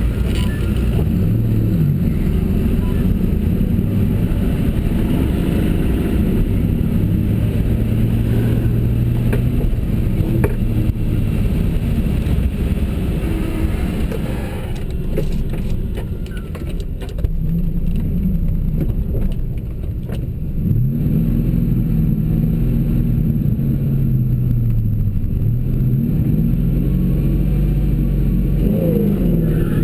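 Car engines running hard under acceleration in a roll race, their pitch climbing and dropping through gear changes. The sound eases off about halfway through, then picks up again with another long rise and fall.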